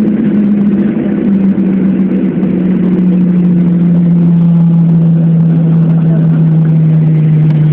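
Jet airliner's engines heard from inside the cabin after landing: a loud, steady rumble with a humming tone that slowly falls in pitch as the engines wind down.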